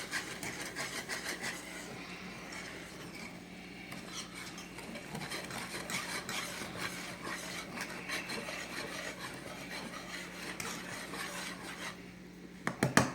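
A utensil stirring a thick cream sauce in a pan, scraping round the pan with many small scratches, over a steady low hum. Near the end a few loud clanks of the utensil knocking against the pan.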